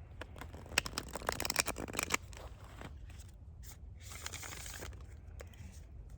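A deck of oracle cards being shuffled by hand: a quick flurry of card clicks for about a second and a half, then a short sliding swish a couple of seconds later.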